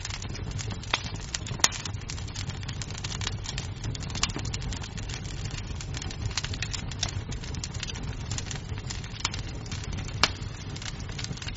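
Wood fire crackling in a fireplace: a steady low rumble of flame with many irregular small crackles, and two sharper, louder pops of burning wood, one about a second and a half in and one about ten seconds in.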